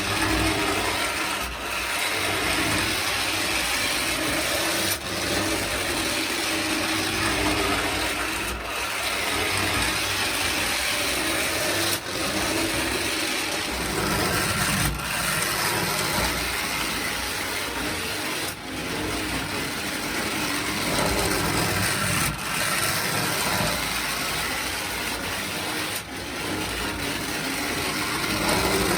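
Lionel Rapid Transit Trolley toy motor running on its track, a steady mechanical whir with brief dips about every three and a half seconds.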